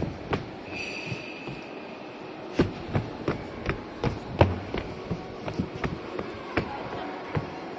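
Footsteps on a hard floor at an even walking pace, about two to three steps a second, over the steady hum of a large hall; a thin high tone sounds for about a second near the start.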